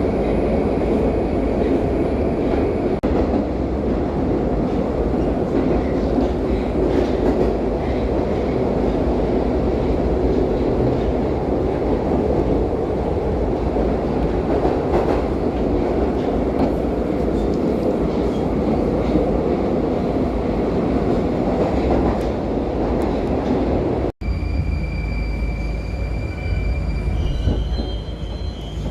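Moscow Metro train heard from inside the car while running through a tunnel: a loud, dense rumble of wheels on rails, with some wheel squeal. About 24 seconds in the sound breaks off for an instant, then goes on a little quieter with thin, steady high whines.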